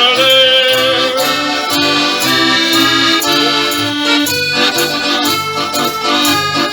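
Live folk band playing an instrumental break in a comic singalong song, led by a squeezebox holding chords over a bouncing bass line of about two notes a second. The last sung note of the chorus ends about a second in.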